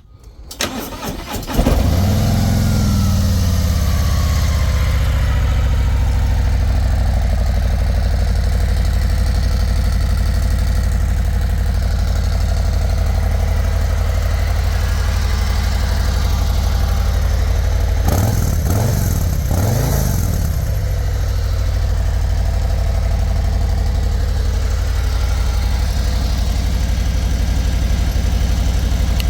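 A Harley-Davidson Road Glide's Milwaukee-Eight 117 V-twin is cranked by the starter, catches after about a second and a half, and settles into a loud steady idle while a whine falls in pitch over the next few seconds. About two-thirds of the way through the throttle is blipped a couple of times, and the engine cuts off at the end.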